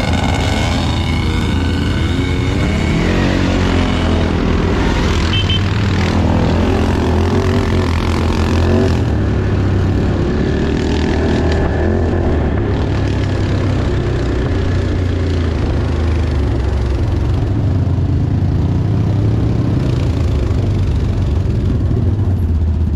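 Off-road vehicle engine running while under way, the revs rising and falling over the first several seconds, then holding steadier.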